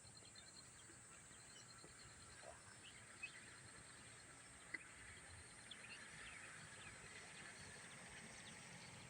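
Faint outdoor rural ambience: scattered short bird chirps over a steady high hiss, with two sharp clicks about three and five seconds in.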